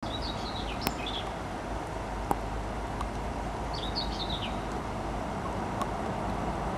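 A songbird sings two short, quick chirping phrases, one near the start and one about four seconds in, over a steady low rumble, with a couple of sharp clicks early on.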